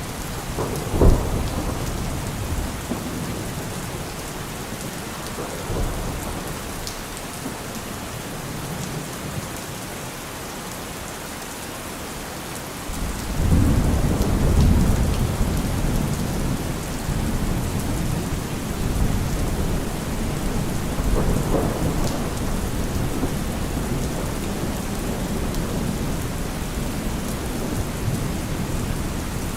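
Steady rain falling, with thunder: a short clap about a second in, then a long, low rolling rumble that begins about halfway through and carries on to the end.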